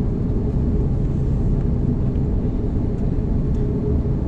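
Steady low rumble of an Airbus A330's jet engines and airflow, heard inside the passenger cabin.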